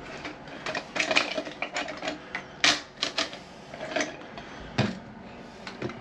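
Irregular plastic clicks and knocks from a new toilet fill valve being handled and its height adjusted in the tank. The loudest knock comes a little under halfway through.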